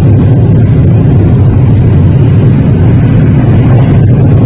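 Multi-nozzle car wash air dryer blowers running loudly and steadily, blasting the water off the car.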